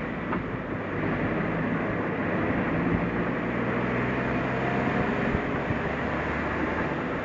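Suzuki Jimny driving steadily on a mountain forest road: engine running with tyre and road noise, and a few light knocks.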